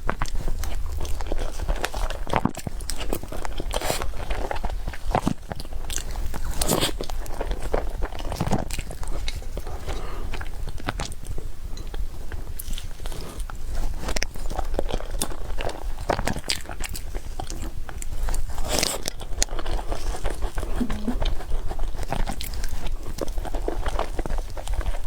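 Close-miked mukbang eating sounds: a person biting and chewing cake, with many irregular wet mouth clicks and smacks.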